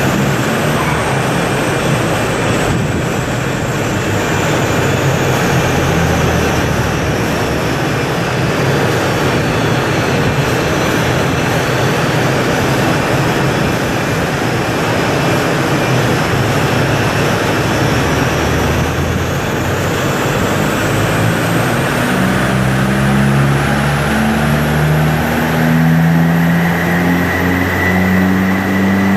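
Tuned 1.9 TDI (AJM) diesel engine of a VW Golf Mk4 with a GTB2056V turbo and a straight-through exhaust, running loud and held at high revs against the rev limiter. A thin high whistle sinks in pitch and then climbs again, and the engine note grows clearer and rises slightly in the last part.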